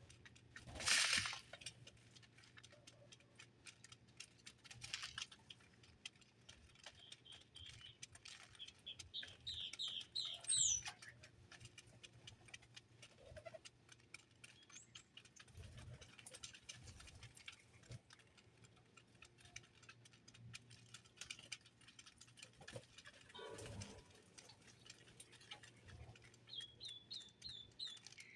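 Small birds chirping faintly amid scattered soft clicks and taps: a rapid run of high chirps climbing in pitch about eight to eleven seconds in, and another short run of chirps near the end.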